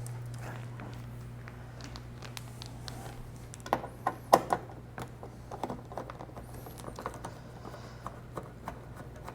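Scattered light clicks and taps of small parts being handled, with a few sharper knocks about four seconds in, over a steady low hum.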